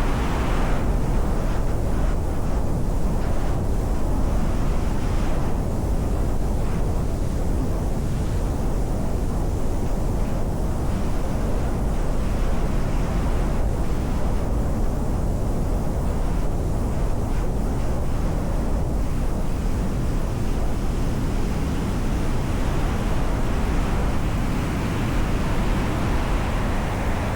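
Wind buffeting the microphone: a loud, steady, low rumbling noise with no distinct events.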